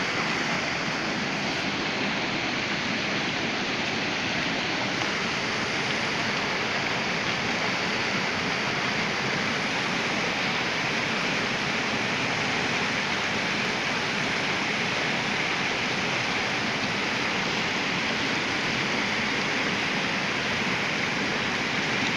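Waterfall crashing steadily into its pool, a constant rushing roar of falling water.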